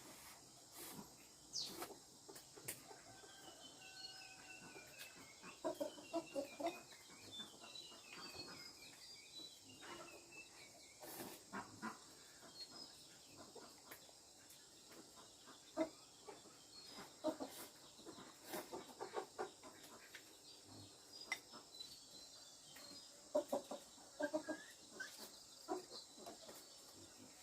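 Chickens clucking in scattered short bursts over a faint steady high hiss.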